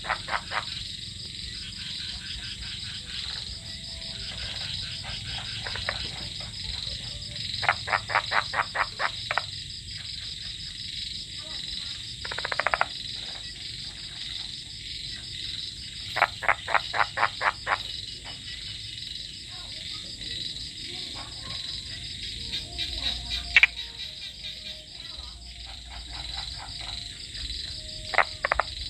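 Frogs croaking: several loud trains of rapid pulsed calls, about eight pulses a second and each lasting a second or two, over a steady high-pitched chorus of calling frogs or insects.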